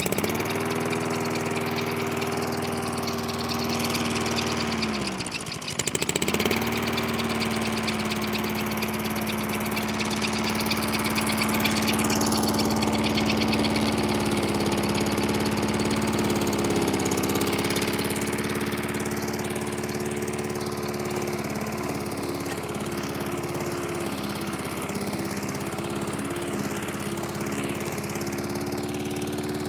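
Mountfield Emperor push mower's four-stroke petrol engine running. It falters and its pitch sags about five seconds in, then picks up and runs steadily, its pitch shifting slightly now and then.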